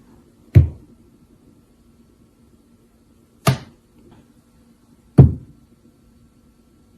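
Three single knocks or thuds on something hard, the first about half a second in, the next about three seconds later and the last under two seconds after that.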